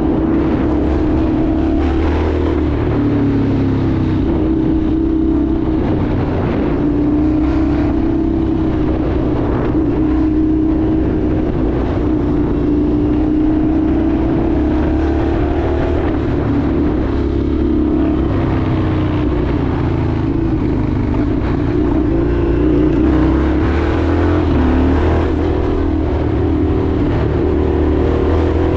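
Indian FTR 1200's V-twin engine running as the motorcycle is ridden, its pitch rising and falling gently with the throttle, over a steady bed of road and wind noise.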